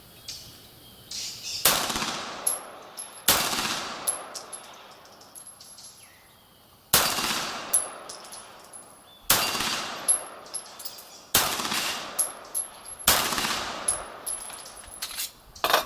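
Beretta 92G Elite Compact 9 mm pistol fired in slow single shots, seven in all, spaced about two seconds apart with one longer pause, each shot echoing briefly. A thin high ring follows several of the shots.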